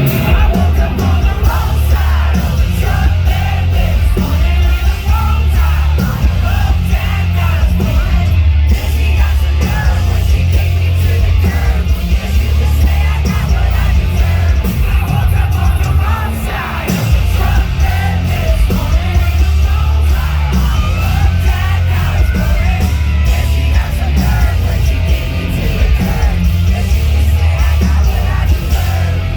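Loud live country-rock band music with a heavy, booming low end and shouted vocals over it.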